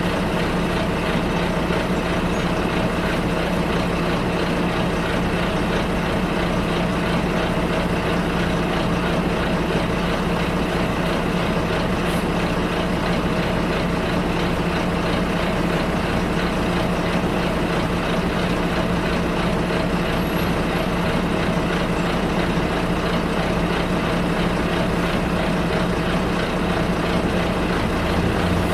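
Steady drone of a bus heard from inside while driving: even engine and road noise with a constant low hum.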